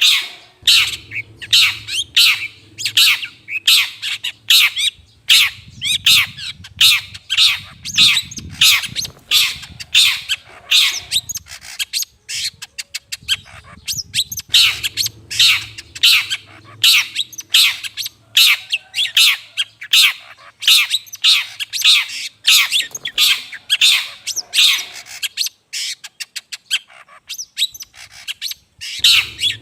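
Long-tailed shrike (cendet) giving harsh, rasping calls over and over, about two to three a second, with a quick run of fast chattering near the middle. This is the kind of call played as a lure to draw in wild shrikes. A low hum runs under parts of it.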